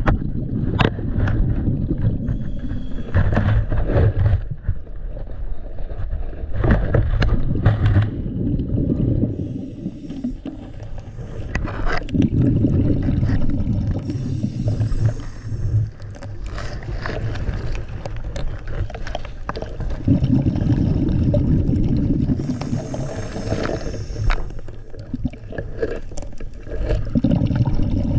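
Scuba diver's regulator breathing heard underwater: a low gurgling rush of exhaled bubbles lasting a few seconds, returning about every seven to eight seconds, with quieter inhales between and scattered sharp clicks.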